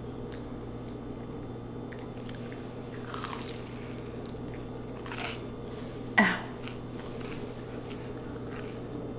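Close-miked eating sounds of a person chewing lo mein, with a few short wet mouth sounds, the loudest about six seconds in.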